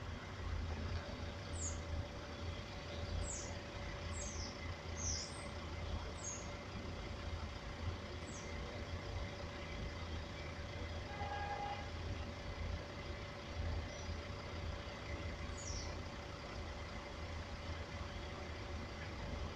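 Steady low engine rumble of vehicles at a road level crossing, with a faint steady tone over it. Short, high, falling chirps come and go through the first half and once more later, and a brief tone sounds about halfway through.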